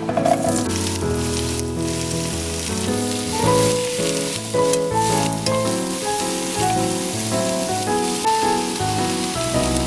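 Food sizzling as it fries in a hot pan, with a few sharper crackles. A gentle solo piano tune plays underneath.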